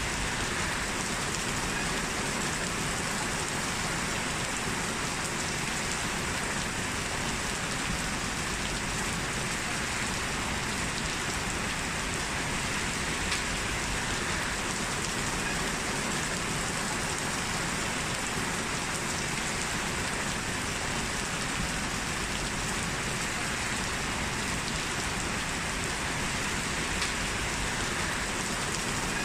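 Steady rain falling on a surface, an even hiss with a few faint drop ticks.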